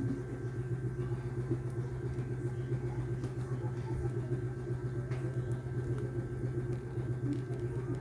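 Steady low machine hum with a thin, constant high whine over it and a few faint light clicks.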